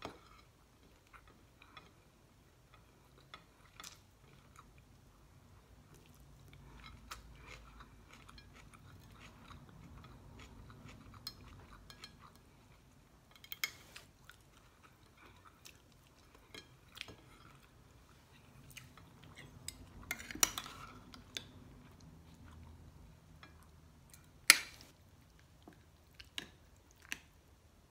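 A person chewing a meal of fried galunggong fish and rice eaten by hand, with scattered light clicks and taps against the plate. The loudest sound is one sharp click about twenty-four seconds in.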